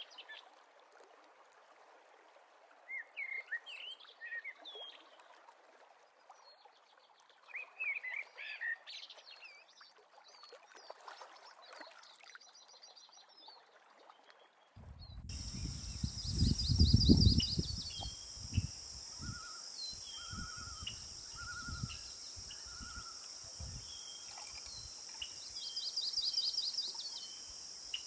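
Wild birds singing and chirping in short phrases. About halfway through the sound changes abruptly to a steady high hiss or buzz with scattered chirps, and a brief low rumble just after the change.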